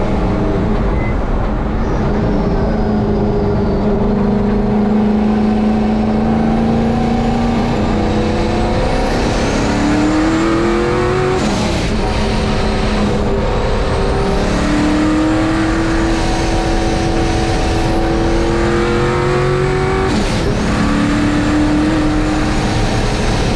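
Turbocharged engine of a 1951 Chevy race truck under hard acceleration on track. Its note climbs through the revs and drops back sharply at upshifts, about halfway and near the end, with a high turbo whistle rising along with it.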